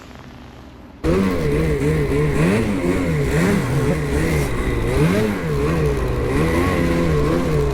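Ski-Doo 850 two-stroke snowmobile engine under way, starting abruptly about a second in. The engine revs up and down repeatedly, its pitch rising and falling about once a second as the rider works the throttle through deep snow.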